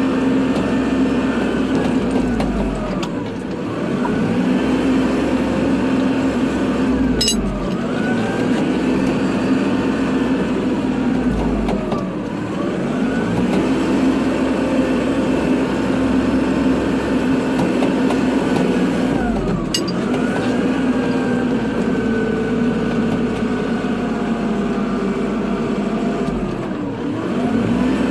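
Kubota tractor's diesel engine running steadily under load while plowing snow. A whine in the drive falls and rises again about every five to seven seconds, and there are two sharp clicks.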